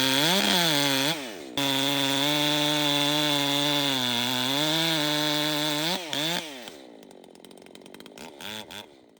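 Two-stroke chainsaw revved in quick blips, then held at high revs for about four seconds before the throttle drops and the sound fades out.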